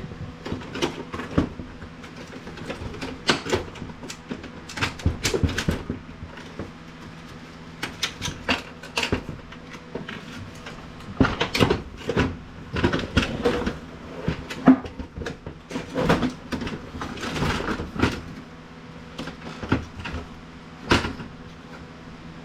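Hard plastic printer housing parts clicking, knocking and clattering irregularly as the printer is pried apart and handled, over a steady low hum.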